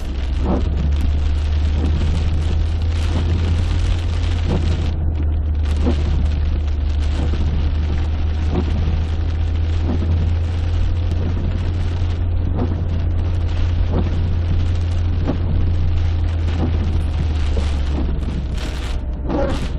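Heavy rain and wind in a thunderstorm, a steady wash of noise over a strong, unbroken low rumble, with scattered faint ticks.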